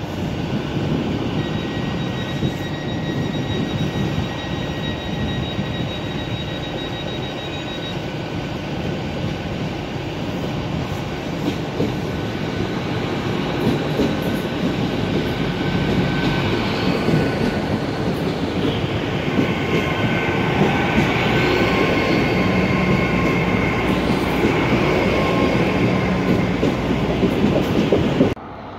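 GWR Intercity Express Train running into the platform and past close by, the rumble of its wheels on the rails getting louder through the second half. A thin, high, steady squeal sounds over it in the first several seconds, and higher squealing tones come in later as the carriages go by.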